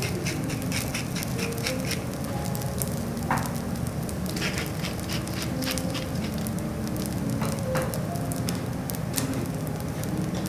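Garlic fried rice sizzling on a hot steel teppanyaki griddle: a steady hiss with irregular small crackles and pops.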